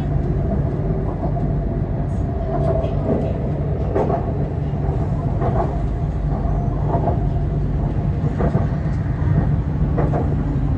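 A BTS Skytrain EMU-B1 metro train running: a steady low rumble of the wheels on the rails, with light clacks every second or so.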